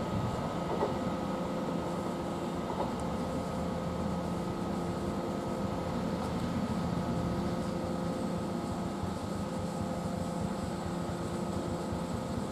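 Steady hum of trains at a railway station, with a few steady whining tones over an even rumble.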